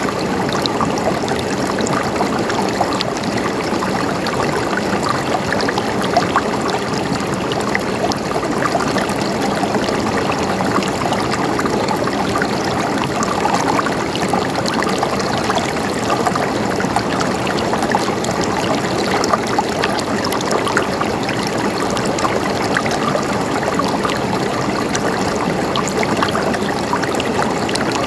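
Stream water flowing and gurgling steadily over stones, a continuous rushing babble.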